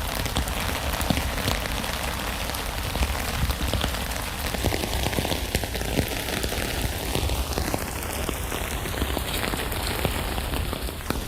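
Steady rain falling on a tent, a dense patter with many individual drops ticking sharply against the fabric.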